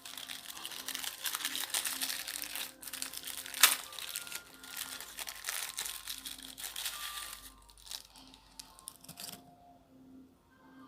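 Dense crinkling and crackling for about seven seconds, with one sharp, loud pop a little under four seconds in, over quiet background music.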